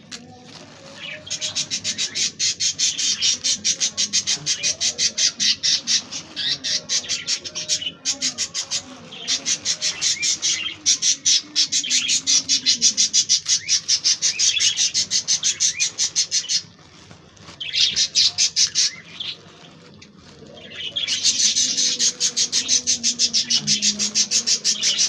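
A flock of budgerigars chattering and squawking in rapid, dense bursts. The chatter breaks off briefly about two-thirds of the way through, then picks up again near the end.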